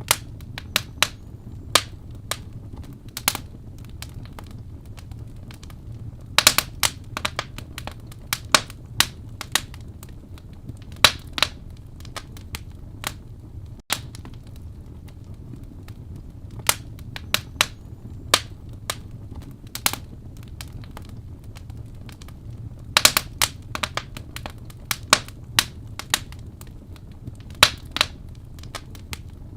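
Wood fire burning in a fireplace: irregular sharp pops and snaps, sometimes in quick clusters, over a steady low rumble of the flames.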